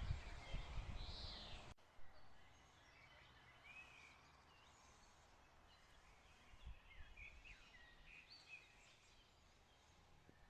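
Faint birds chirping in short scattered calls over quiet outdoor background. The first couple of seconds carry louder rumbling noise that stops abruptly.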